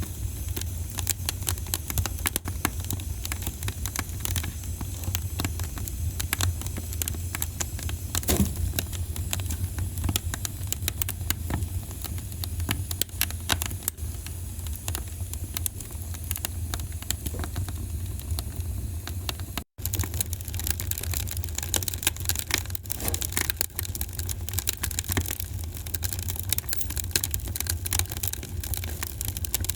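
Wood fire crackling, with many irregular sharp pops over a steady low rumble. The sound cuts out for an instant about two-thirds of the way through.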